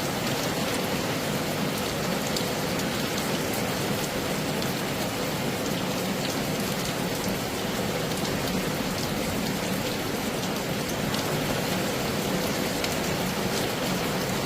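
Heavy rain falling steadily: a dense, even hiss with many single drops ticking sharply through it.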